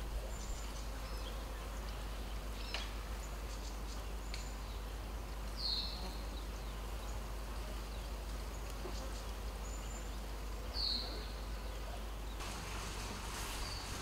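Woodland ambience: a steady hiss with a low hum, broken twice by a single short, high, falling bird chirp about five seconds apart. Near the end a brighter rushing hiss sets in.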